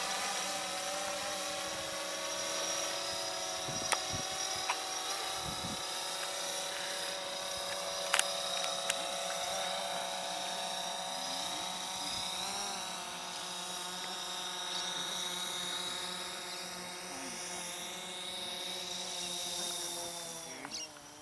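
Electric RC model plane's motor and propeller running at a steady throttle, a continuous whine that dips slightly in pitch about halfway through. A few sharp ticks sound over it.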